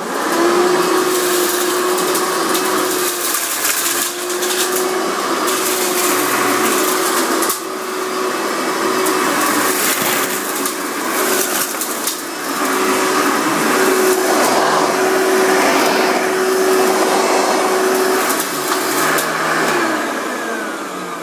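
Hoover Elite upright vacuum cleaner switching on and running steadily as it sucks up dirt, its motor giving a constant whine over the rushing air, with scattered clicks; it winds down near the end.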